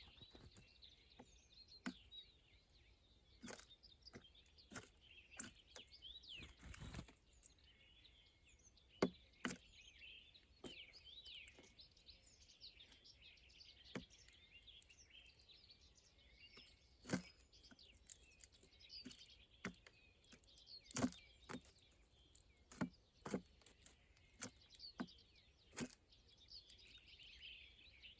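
Small songbirds chirping and twittering faintly, with scattered sharp taps and clicks throughout.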